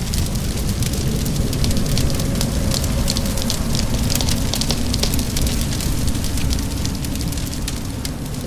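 Wood fire crackling with many small sharp pops over a steady hiss and rumble of rain.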